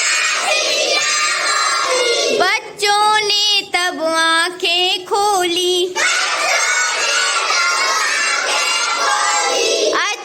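A group of children chanting a Hindi rhyme loudly together. From about three to six seconds in, a single clear voice sings a line alone before the group comes back in.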